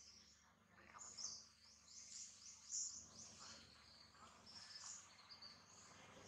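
Faint birds chirping: a quick run of high, short chirps between about one and three seconds in, with scattered chirps after.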